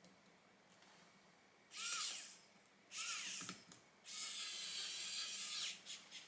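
Small electric screwdriver driving screws into the laptop's case, running in three bursts, the last and longest about a second and a half.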